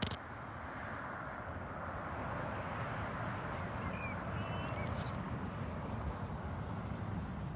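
Aircraft noise at an airport runway: a steady rumbling roar that builds a little over the first couple of seconds and then holds, with a sharp click at the start and a few short high chirps near the middle.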